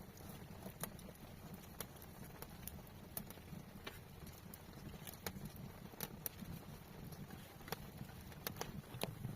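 Scattered sharp clicks and light taps at an uneven pace, over a low steady rumble.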